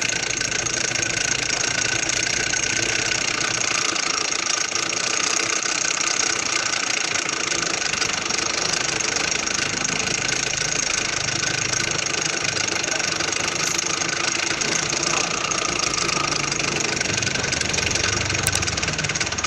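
Stirling engine running steadily, with a fast, even mechanical clatter.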